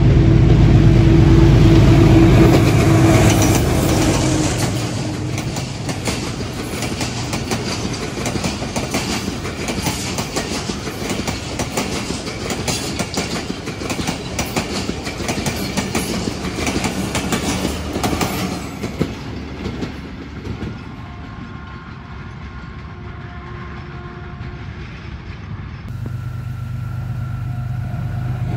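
A diesel-electric locomotive passes close with its engine running loud. About four seconds in, the coaches follow, their wheels clattering rapidly over the rail joints for around fourteen seconds before fading away. Near the end, a second diesel locomotive's low engine drone rises as it approaches.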